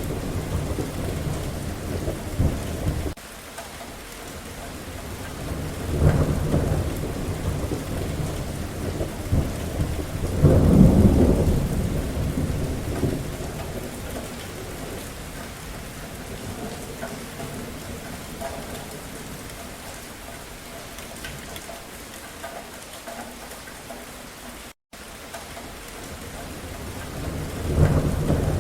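Steady rain with rolls of thunder rumbling in several times, the loudest about a third of the way through and another swelling near the end. A split-second gap in the sound late on.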